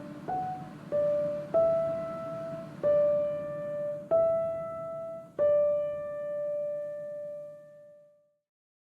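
Background piano music: six slow single notes struck about a second apart, the last one ringing out and fading away to silence near the end.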